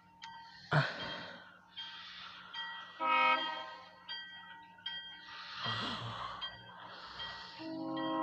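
Diesel locomotive air horn sounding for a grade crossing as the train approaches: a short blast about three seconds in, and a long blast starting near the end. Brief rushing noises come in between, the loudest about a second in.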